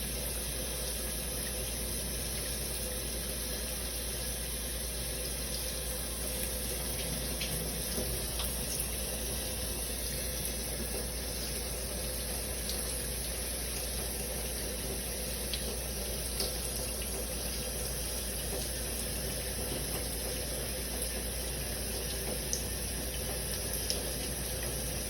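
Shower running: a steady hiss of water spray, with a few faint ticks scattered through it.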